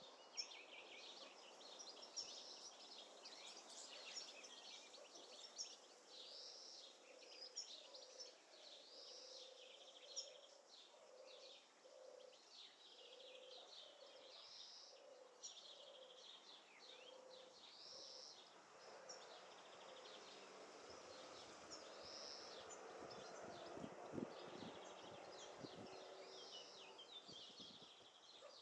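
Faint outdoor ambience of several small birds singing and chirping in short phrases, with a low call repeated about once a second through the first two-thirds. In the last third a soft rush of noise swells and then fades.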